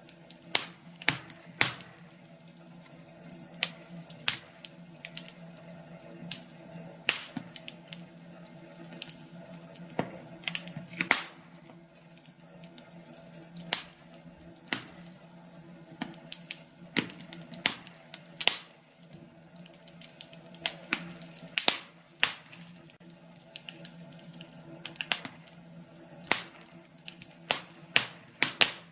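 Wood burning in a fireplace, crackling with irregular sharp pops and snaps over a faint steady low background.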